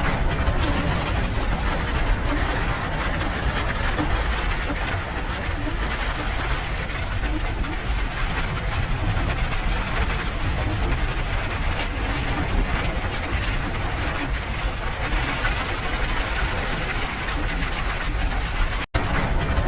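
Steady rain noise: a dense, even hiss with a strong low rumble underneath. It cuts out for an instant near the end, then resumes.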